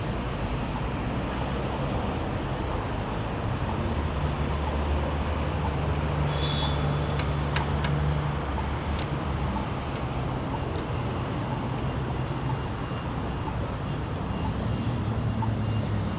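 City street traffic: steady road noise, with a heavier vehicle's engine hum swelling between about four and nine seconds in and again near the end. Faint, evenly spaced ticks sound through it.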